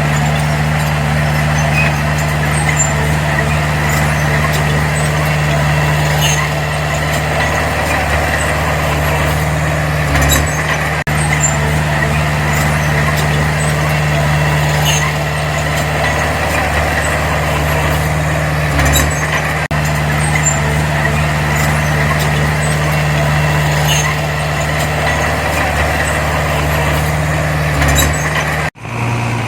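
Diesel engine of heavy earthmoving machinery running steadily under load, at a constant pitch with faint scattered clicks. It cuts off abruptly near the end and a quieter engine sound takes over.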